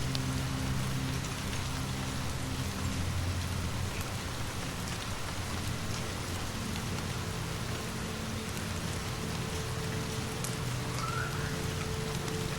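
Steady rainfall with a few faint clicks, over low sustained drone tones that shift pitch every few seconds.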